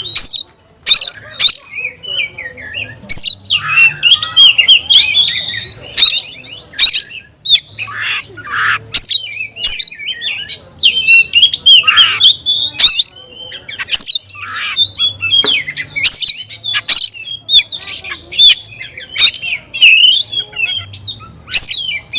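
Oriental magpie-robin (kacer) singing hard: a rapid, unbroken run of varied whistles mixed with harsh rasping notes, loud and with only brief breaks.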